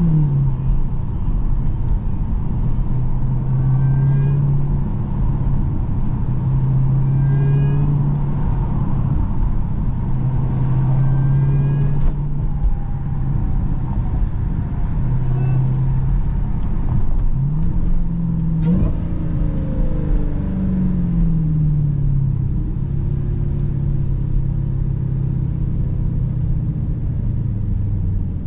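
Dodge Hellcat's supercharged 6.2-litre V8, heard from inside the cabin, droning at steady low revs while cruising. About eighteen seconds in the revs rise briefly, then fall away again.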